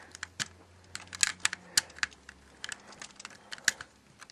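Irregular sharp clicks and taps of hard plastic LEGO pieces being handled: a minifigure and the truck's cab parts knocking together in the hands.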